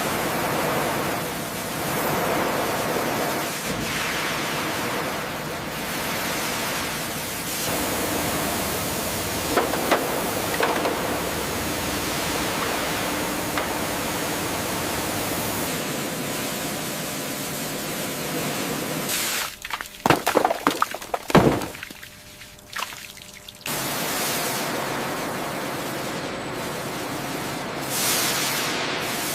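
Steady hiss of a pump-driven pressurized spray. About two-thirds of the way through it breaks off for a few seconds, with a few short, loud sounds, then starts again.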